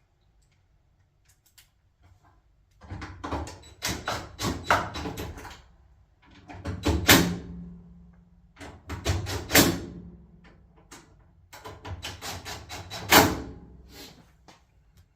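Power driver running sheet metal screws down into a dryer's sheet metal top panel, in four bursts of about two seconds each starting about three seconds in, each ending with a sharp crack.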